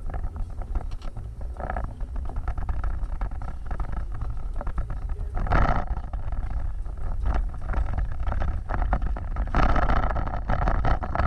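Off-road vehicle driving: a steady low rumble, with louder, brighter surges about halfway through and again near the end.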